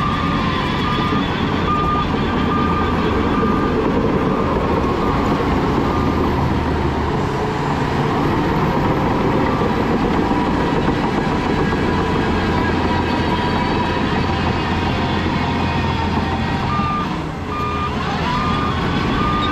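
Heavy diesel earthmoving machinery running steadily under load, with a reversing alarm beeping at an even pace. The beeping stops about six seconds in and starts again near the end.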